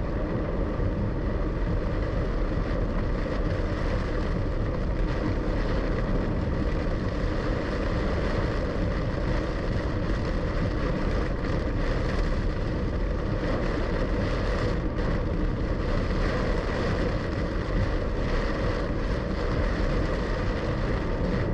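A car driving through heavy rain, heard from inside: rain on the body and tyres on the soaked road make one dense, steady rush, with the car's running underneath.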